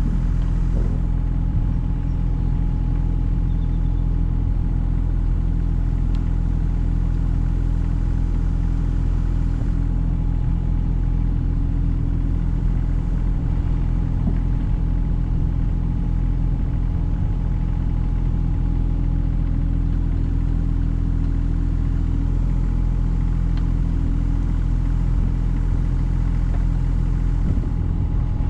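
Backhoe engine running steadily at constant speed while it presses a fence post into the ground.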